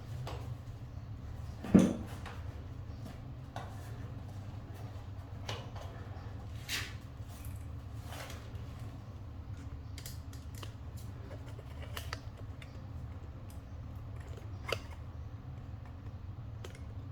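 Small clicks and handling noises from hands and tools at work, with one sharp knock about two seconds in, over a steady low hum.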